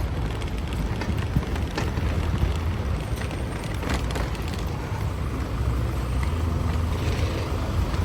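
City street traffic: vehicles running past on a rain-wet road, a steady low rumble with tyre hiss over it.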